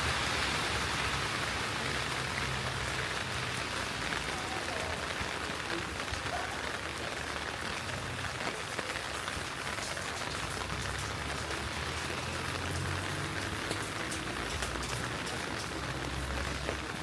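Steady heavy rain hissing on a city street, with close drops pattering, more densely in the second half. A passing vehicle fades out at the start.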